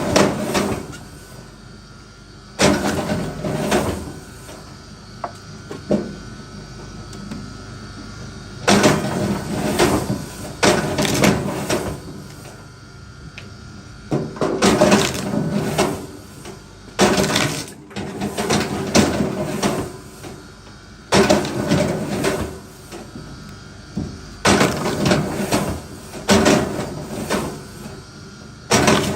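Repeated bursts of wooden knocking and clattering, about a dozen, each a second or two long and made of several quick impacts, with pauses of a few seconds between them.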